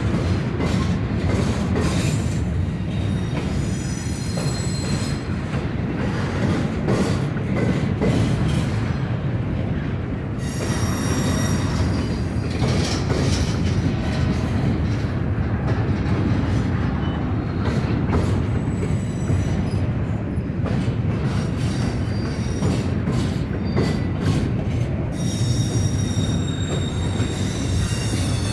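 Norfolk Southern freight train's cars rolling past with a steady rumble and clatter of wheels on rail joints, the wheels squealing in high thin tones several times.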